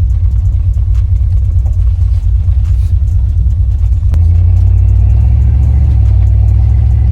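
Vehicle's newly fitted exhaust with a turn-down tip rumbling deeply while driving. The rumble swells and stays louder from about four seconds in, as when the throttle is opened.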